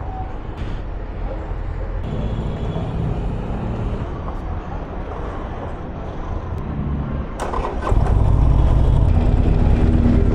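Low rumble of engines and traffic, then a few clicks about seven and a half seconds in and a motorcycle engine, a Harley-Davidson Forty-Eight's V-twin on its stock exhaust, starting and running at idle, markedly louder.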